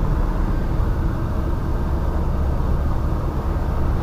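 Steady cabin drone of a Cessna 172 in flight: engine, propeller and airflow noise with no changes. The engine is throttled back to idle for a power-off glide.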